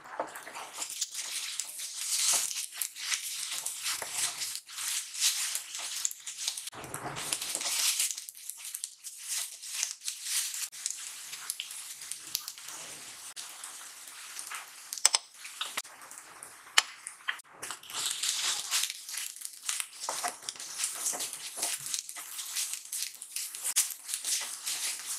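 Chopped onions and ginger-garlic paste sizzling in hot oil in a non-stick frying pan, stirred and scraped with a utensil, with many small clicks and a couple of sharp taps on the pan about halfway through.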